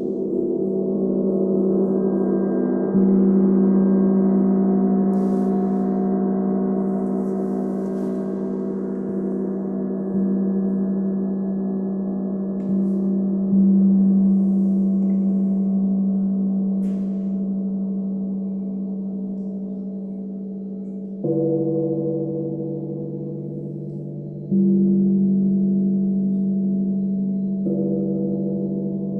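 Meditation gongs and sound bowls struck again every few seconds, their long ringing tones overlapping and slowly dying away between strikes. About two-thirds of the way through, a deeper-pitched instrument joins in.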